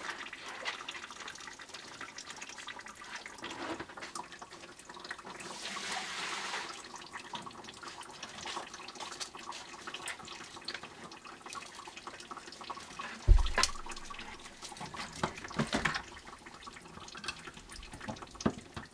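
Leftover water dripping and trickling from the cut supply pipe now that the water is shut off and the pressure is gone, with scattered small clicks of handling. There is a short louder splash about six seconds in, and a single loud thump about thirteen seconds in.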